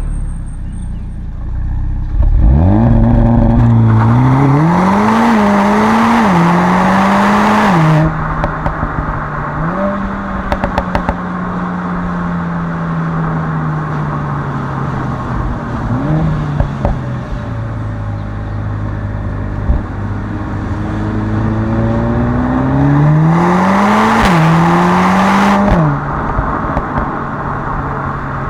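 Mercedes-AMG A45 S's turbocharged four-cylinder accelerating hard from about two seconds in, revs climbing and dropping back in several quick upshifts. On lift-off there is a short spell of exhaust crackles, then the revs ease down slowly for a long stretch. Near the end there is a second full-throttle pull through a few more quick upshifts, and then the revs fall away.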